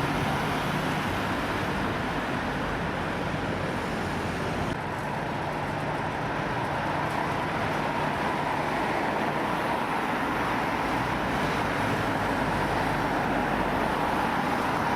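Steady engine noise with a low hum, dipping slightly in level about five seconds in.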